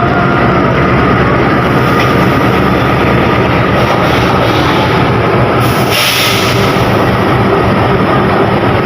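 A train running past on the station tracks: steady, loud rumble and rail noise, with a brief hiss a little under six seconds in.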